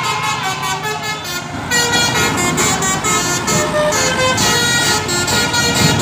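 Basuri telolet multi-tone bus horn playing a melody, several pitched notes sounding together and stepping from note to note; about two seconds in it switches to a louder, brighter run of notes.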